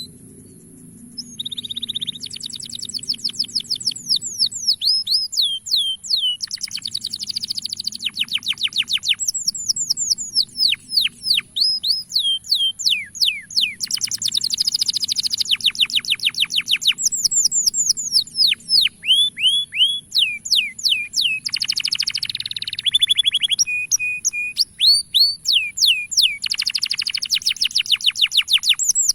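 Male domestic canary singing: long phrases of fast trills and rapid falling whistled notes, broken by short pauses, starting about two seconds in.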